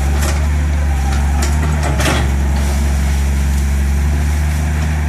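Heavy engine of road-construction machinery running steadily, with a brief noisy rasp about two seconds in.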